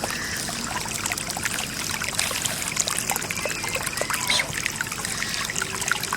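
Floodwater trickling and splashing, made up of many small splashes and drips over a steady running sound.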